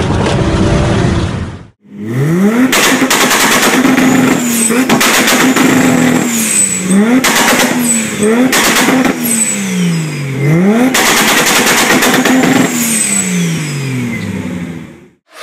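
Exhaust of a 2JZ-swapped Mazda RX-7 being free-revved while parked: the revs sweep up, hold and fall back about half a dozen times, with sharp exhaust pops and bangs crackling between the blips.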